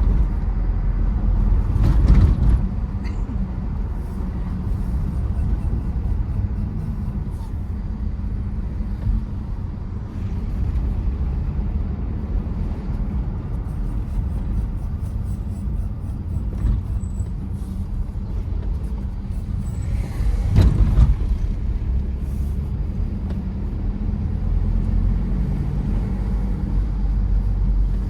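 Tata Safari Storme SUV's diesel engine and road noise: a steady low rumble while driving, with two brief louder jolts, about two seconds in and again about twenty seconds in.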